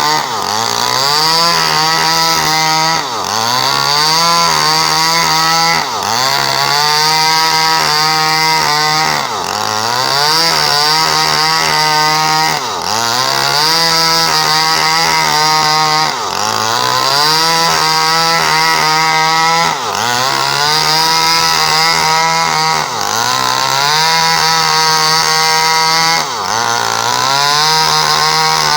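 Small Stihl chainsaw running at high speed while cutting coconut palm wood. Its pitch dips briefly and recovers about every three seconds as the chain takes the load.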